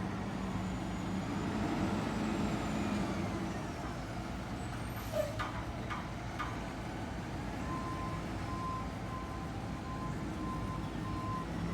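Garbage truck's diesel engine running steadily, with a few short knocks in the middle. A run of evenly spaced reversing beeps starts about two-thirds of the way in as the truck backs up.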